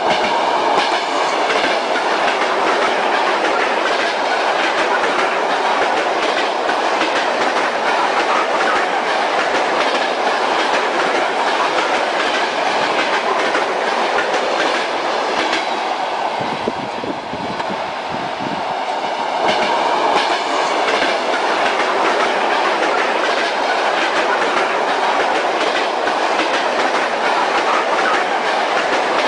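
Train running on the rails, a steady rumble with the clickety-clack of wheels over rail joints. About two-thirds of the way in the sound briefly drops and turns deeper, then picks up again.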